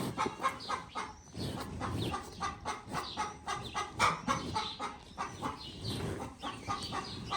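Chickens clucking continuously, many short overlapping calls.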